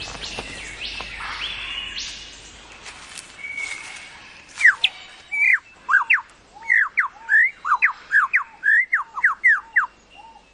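Superb lyrebird singing: faint calls over a forest hiss at first, then, about four and a half seconds in, a rapid run of loud, sharp whistled notes, each sweeping quickly up or down in pitch.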